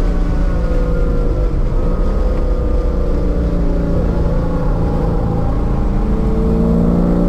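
1999 C5 Corvette's LS1 V8 with long-tube headers and a catless X-pipe, heard from inside the cabin at speed: the engine note falls as the car slows for a corner, then rises again near the end as it accelerates out.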